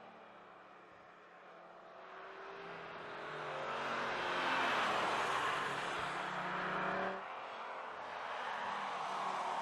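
Audi RS3 Sportback's 2.5 TFSI turbocharged five-cylinder engine and sports exhaust accelerating. It swells from faint to loud with its pitch climbing, then drops suddenly about seven seconds in and carries on more steadily.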